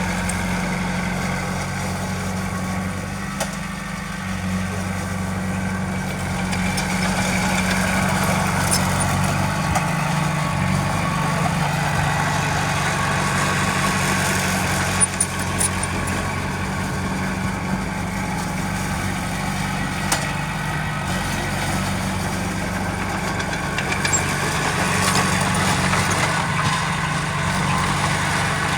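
Heavy diesel engine of an earthmoving machine running steadily at a low, even pitch, with a few short knocks scattered through.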